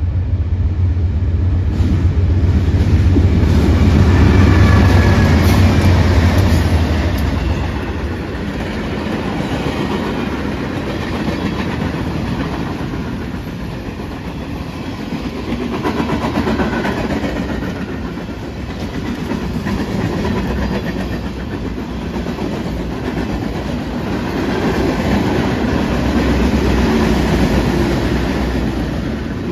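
Freight train passing close by, led by three BNSF diesel locomotives. The locomotives' deep engine rumble is loudest over the first several seconds, then gives way to the steady clickety-clack and rumble of flatcar wheels over the rail joints as the flatcars roll past.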